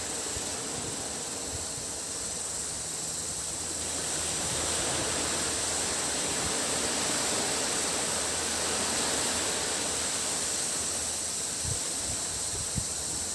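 Sea waves washing onto a beach, the surf swelling for a few seconds in the middle, under a steady high-pitched drone of cicadas. A light bump is heard near the end.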